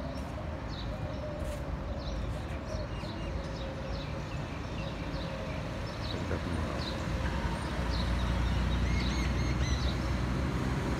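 Small birds chirping, short high chirps about once a second with a busier burst of calls near the end, over a steady low rumble of street traffic that swells a little in the second half.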